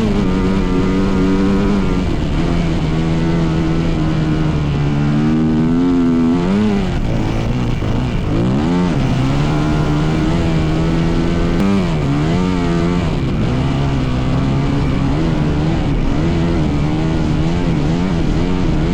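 Dirt bike engine running at a steady pitch, revved up and down several times in the middle.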